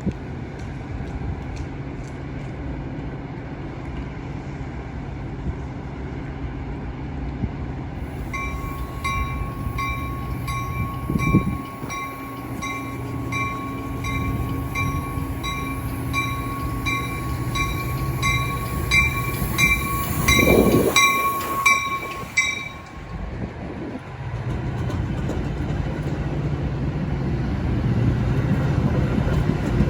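Metra diesel commuter train rumbling steadily, with a bell ringing at an even beat from roughly a quarter of the way in until about three quarters through. The train noise grows louder near the end.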